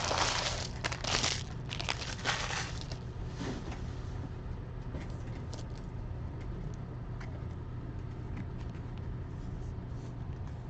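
Foil trading-card pack wrappers being torn open and crinkled for about the first three seconds. After that come faint scattered clicks of cards being handled over a steady low hum.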